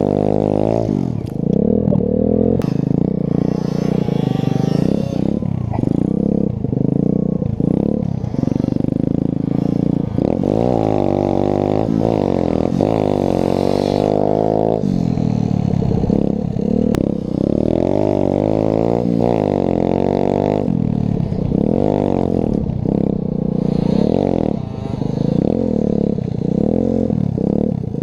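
Pit bike engine revving up and down over and over as it is ridden, its pitch rising and falling every second or two.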